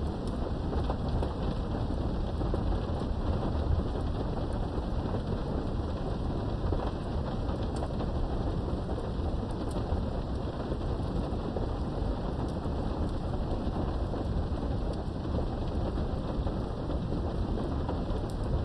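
Steady rain from a thunderstorm heard behind a window, with a continuous low thunder rumble underneath and scattered faint drop ticks.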